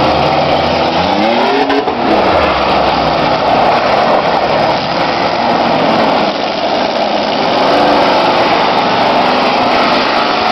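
Several race cars' engines running hard together on a speedway track; about a second in one engine revs up and falls back as it goes past.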